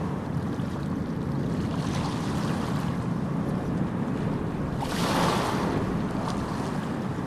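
Gentle sea waves washing onto a sandy beach in a steady, even rhythm, with one wave breaking louder about five seconds in.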